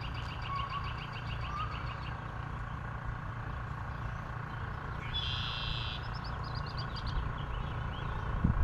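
Songbirds singing over a steady low rumble: a rapid trill of repeated high notes in the first two seconds, a buzzy burst about five seconds in, then another short trill. A low thump near the end.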